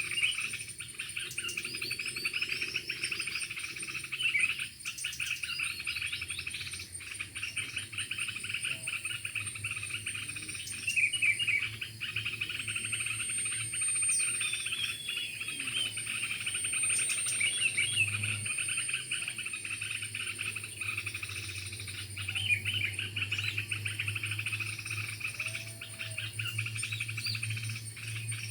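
Several birds chirping and trilling rapidly and continuously over a steady high-pitched insect drone.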